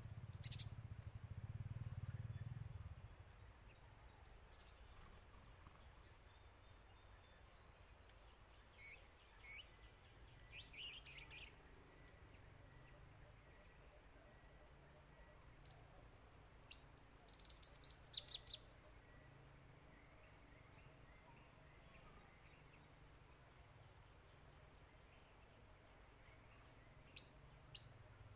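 Steady high-pitched drone of crickets or other insects, with a few small-bird chirps about eight to eleven seconds in and a louder burst of bird chirping about two-thirds of the way through.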